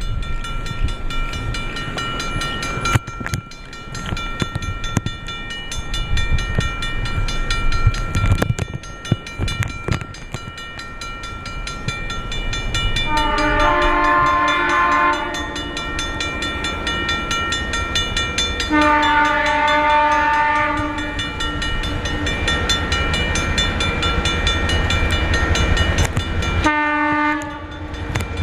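Diesel locomotive MCER 2100 running past with a steady engine rumble, sounding its horn three times: two long blasts, then a short one near the end.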